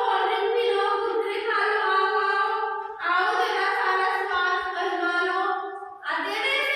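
A single high voice singing a song in long, held notes, with short breaks for breath about three seconds in and again near the end.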